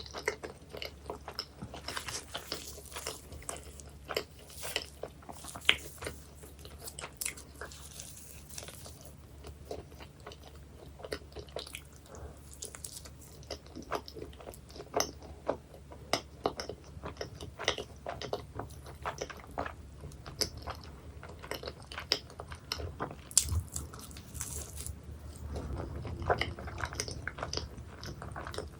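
Close-miked eating of pie: the pastry crust crunching in many small, sharp crackles with chewing between bites.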